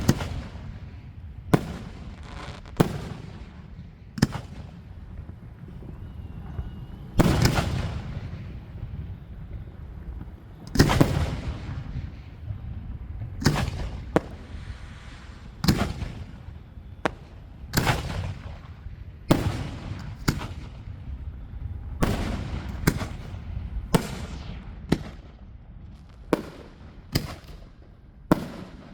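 Aerial fireworks bursting overhead: a sharp bang every one to three seconds, about twenty in all, each trailing off into a rumble. Two of the bangs, a quarter and a third of the way in, are heavier and rumble longer.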